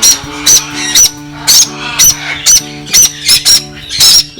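Baby parrots squawking during hand-feeding: loud, short, high food-begging calls repeated two or three times a second.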